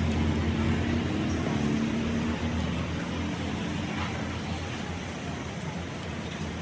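A machine running steadily: a continuous low hum under a noisy wash, with a fainter tone on top that fades out about three seconds in.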